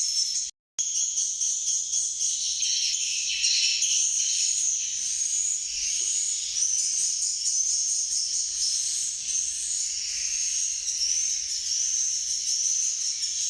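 Dense chorus of swiftlets chirping and twittering, a continuous high-pitched tinkling, with a brief silent cut about half a second in.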